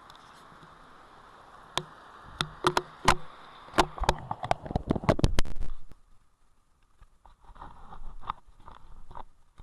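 Steady rain falling, with a run of sharp ticks from drops striking close to the microphone that come faster and louder toward the middle. The rain noise cuts off abruptly about six seconds in.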